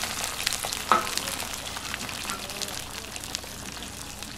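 Food frying in hot oil: a steady sizzle with crackling, and one sharp tap about a second in.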